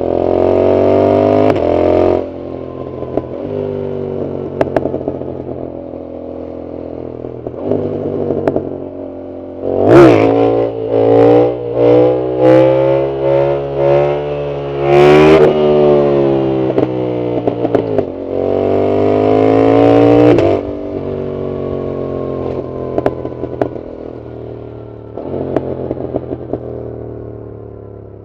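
Yamaha MT-07 parallel-twin engine with a loud full exhaust, ridden hard: repeated throttle pulls with the pitch climbing, then falling away on the overrun. In the middle comes a choppy run of short, sharp revs with crackles, and there is another long pull later on and a short burst near the end.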